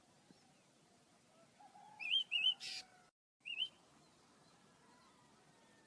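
Small pet birds chirping: two quick chirps about two seconds in, then a brief hiss, and a single chirp after a short dropout.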